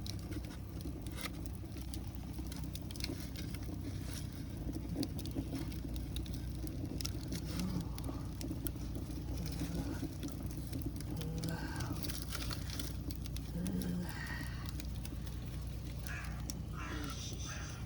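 Firewood crackling and popping as it burns in a DIY rocket stove, the small pops scattered throughout over a steady low rumble.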